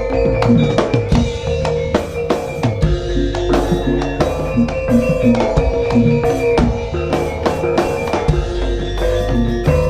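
Live jaranan dance accompaniment music from a campursari ensemble: sustained gamelan-style pitched notes over a steady, driving drum beat with bass drum and snare-like strikes.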